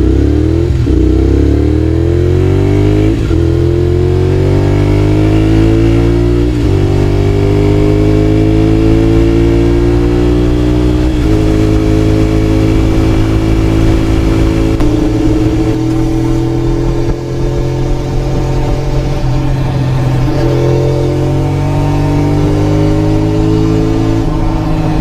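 Honda VTR250 V-twin running through a WR'S full exhaust system with a carbon silencer, accelerating hard. The pitch rises and falls back at each of about four upshifts in the first dozen seconds. After that the engine holds a steadier cruise, with a few brief throttle changes.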